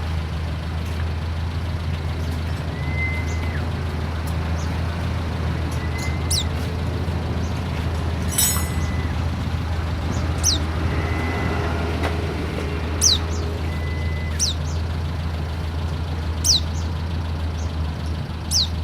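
White-eye (pleci) giving sharp, high, downward-slurred call notes every few seconds, with one brief trill, over a steady low hum and a short beep-like tone that repeats about every three seconds.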